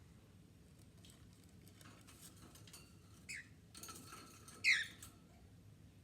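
Cockatiels giving two short chirps that sweep down in pitch, a little over a second apart, the second louder, amid soft scratching and clicking.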